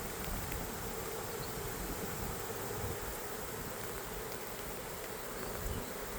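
Swarm of honey bees buzzing, a steady even hum of many bees in flight.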